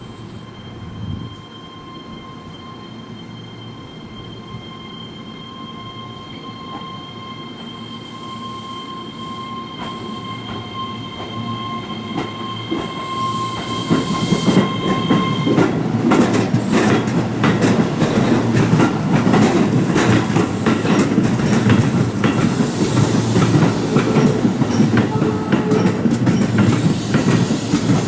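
Keihan 13000-series electric train pulling away and rolling slowly through the points at about 15 km/h. A steady whine stops abruptly about halfway through. The train grows louder as it nears, then passes close by with dense clicking and clattering of its wheels over the points and rail joints.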